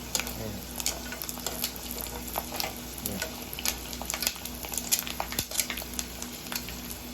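Chicken feet and gizzards frying in hot oil: a steady sizzle with irregular crackles and pops as they crisp.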